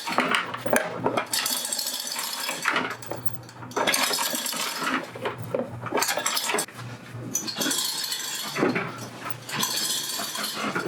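Metal clinking and rattling in three stretches of a few seconds each, with short pauses between: hardware and chain jostling as the engine is let down out of the car.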